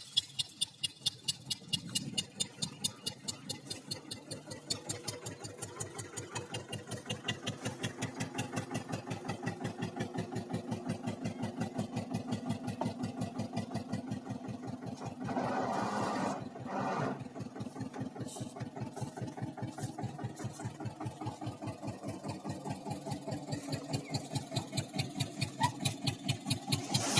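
Eicher 242 tractor's diesel engine running with a steady, even chugging beat, with a louder noisy stretch a little past halfway.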